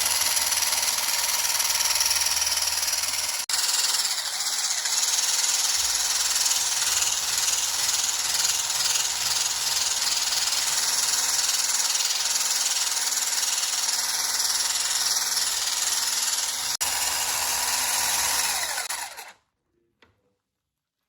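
Electric mixer running steadily as it whips liquid cream, its motor giving a constant hum under a whirring hiss. It stops shortly before the end, leaving near silence.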